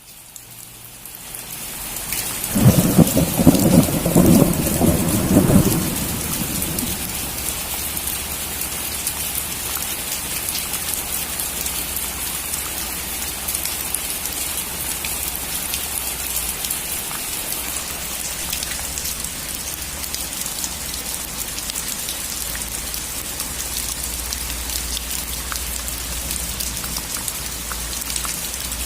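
Steady heavy rain falling on a roof, fading in over the first couple of seconds. About two and a half seconds in, a loud clap of thunder rumbles for some three seconds, then the rain runs on evenly.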